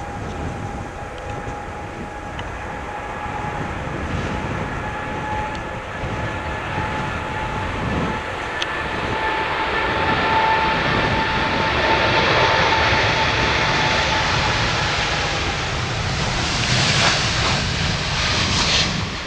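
Boeing 787-8 jet airliner on its takeoff run. A steady engine whine grows louder as the jet roar builds, with a broad hissing roar strongest in the last few seconds.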